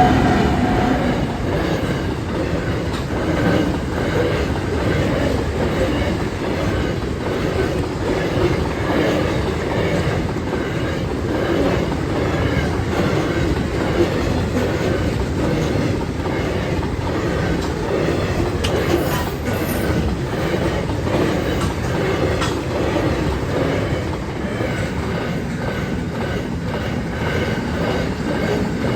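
Long freight train rolling steadily past at a level crossing: continuous wheel-on-rail rumble with clickety-clack from the wagons.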